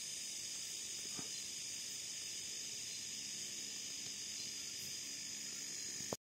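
Steady high-pitched chorus of night insects, crickets and the like, in the forest. A faint click about a second in and a sharper click near the end, where the sound cuts off abruptly.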